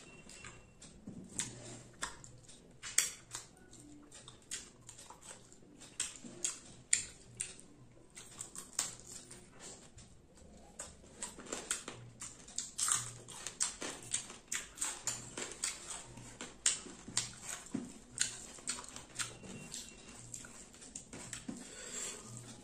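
Close-miked eating by hand: wet chewing and lip smacking of rice mixed with crumbled fried fish, full of irregular sharp clicks and smacks, with fingers squishing rice on the plate.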